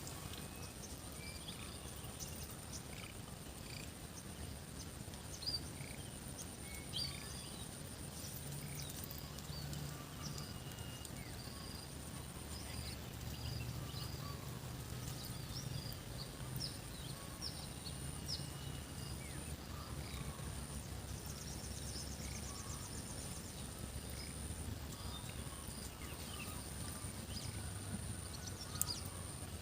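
Outdoor rural ambience: many short, scattered bird chirps over a steady high-pitched insect drone and a low rumble, with a couple of brief knocks.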